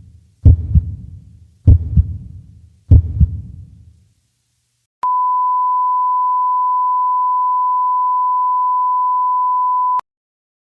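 Three deep thuds about a second and a quarter apart, each dying away, like a slow heartbeat effect. Then a single steady pure beep tone, pitched around 1 kHz, holds for about five seconds and cuts off sharply.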